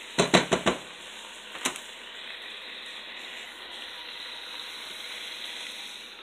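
Chicken and mixed vegetables sizzling in a pot, a steady hiss. In the first second the spatula knocks on the pot about five times in quick succession, with one more knock a second later.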